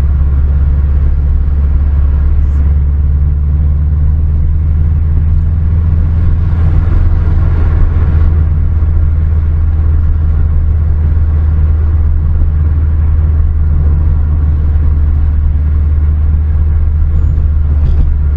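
Car engine running at a steady speed with low road rumble, an even drone that holds without clear revving.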